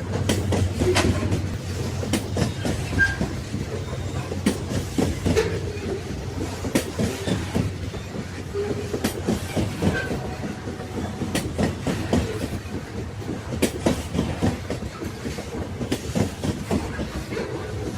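Railway carriages running on the rails: a steady low rumble with frequent irregular clicks and knocks from the wheels over rail joints.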